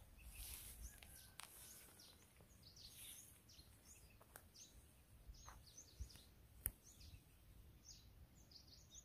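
Faint outdoor quiet with wild birds calling, many short falling chirps scattered through, and two soft clicks about two-thirds of the way through.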